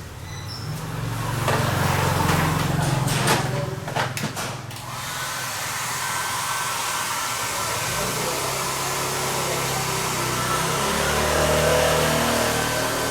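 Hot-air blower running with a steady hiss that starts about five seconds in, after a few sharp clicks and knocks over a low hum.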